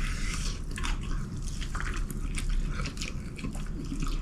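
Close-up wet chewing and mouth clicks of someone eating chicken wings, a scatter of short sharp clicks.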